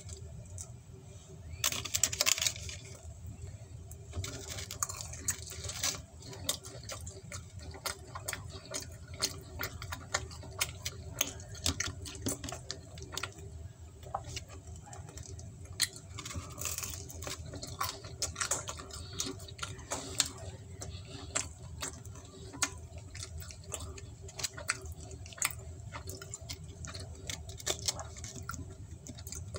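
Close-up eating sounds: a mouthful of pizza being chewed, with many short mouth clicks scattered throughout and a louder burst about two seconds in. A steady low hum runs underneath.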